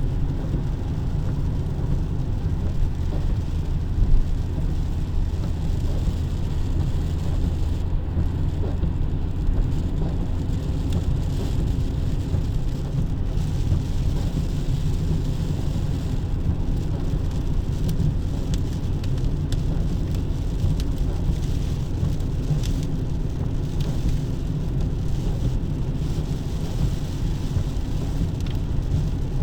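Steady low road rumble of a car moving in the rain, with rain falling and faint scattered drop ticks.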